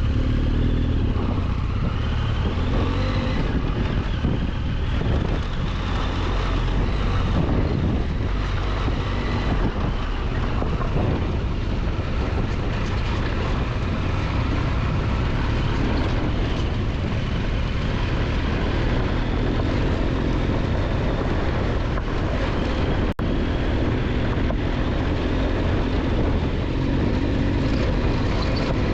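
Adventure motorcycle riding on a rough dirt road: the Triumph Tiger 1200's inline-three engine running steadily under way, mixed with wind and road noise.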